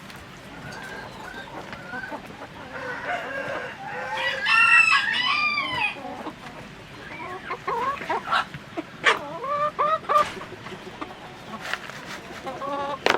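A rooster crows once, loudly, about four seconds in, amid the clucking of chickens.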